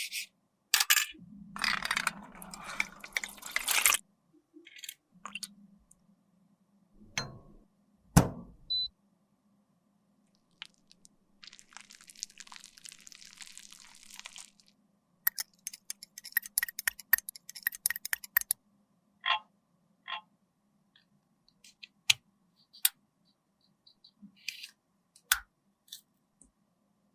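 Close-up handling sounds of cosmetics being worked by hand: a few seconds of crunchy scraping, a sharp knock, a softer scraping stretch, a run of rapid clicks, then scattered light taps of tools and containers.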